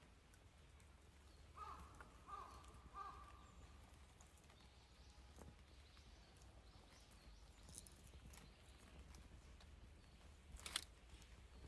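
Campfire wood crackling faintly, with scattered sharp pops; the loudest comes near the end. Three short pitched calls sound about two seconds in.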